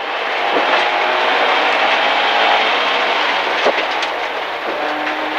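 In-cabin sound of a Rally First MG ZR's 1.4-litre engine running under load on a gravel stage, with gravel noise from the tyres and a few stones knocking against the car's underside.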